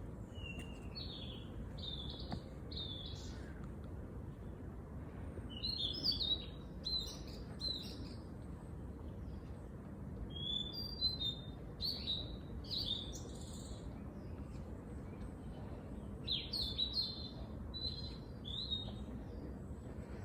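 Songbirds chirping in four bouts of quick, high notes a few seconds apart, over a steady low background rumble.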